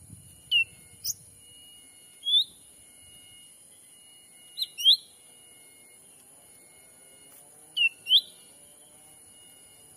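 Cucak ranting calls used as a lure: short, sharp, rising whistled notes, singly and in quick pairs, every second or two. A steady high hiss and a thin held tone run underneath.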